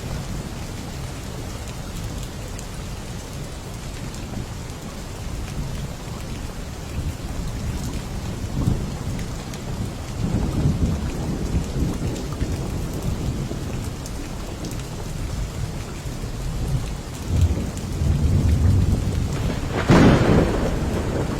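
Steady rain falling, with low thunder rumbling more and more in the second half and a loud, sharp thunderclap near the end.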